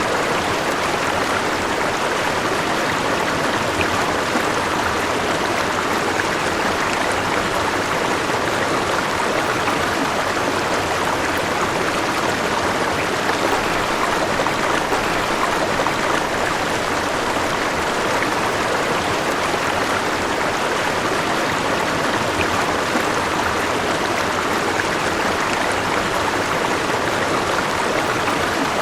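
River water flowing steadily over rocks, a continuous rushing and babbling with no change in level.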